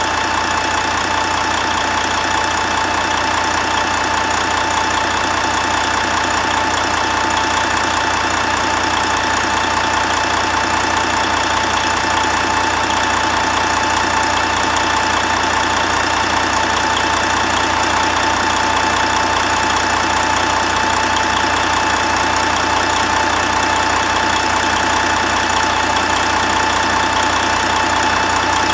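Detroit DD15 inline-six diesel engine idling steadily, with a constant whine over the run of the engine.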